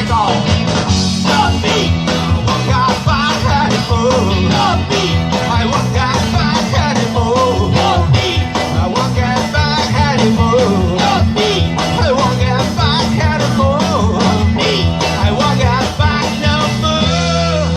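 Rock band playing live, an instrumental passage with drums, bass and a wavering lead line, ending on a chord held out about seventeen seconds in.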